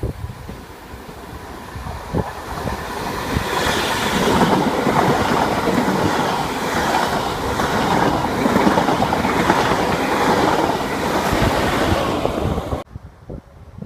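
A train passing, its wheel and rail noise building over a few seconds into a steady loud rush with a rhythmic clatter, then cutting off suddenly near the end. Wind buffets the microphone at the start.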